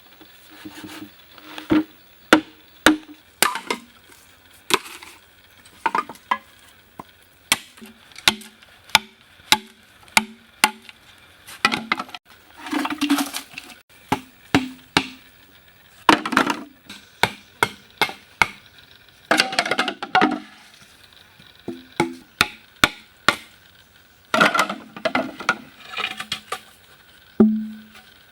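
Hand tool striking wood: irregular sharp knocks, one to two a second, some with a short hollow ring, broken by a few longer cracking or scraping bursts of about a second.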